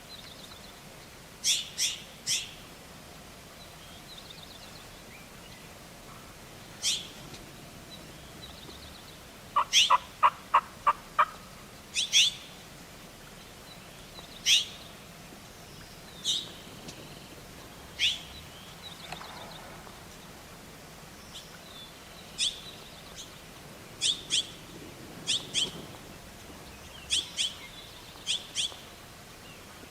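Short, sharp, high bird chirps repeating every second or two. About ten seconds in comes a quick run of about six turkey yelps.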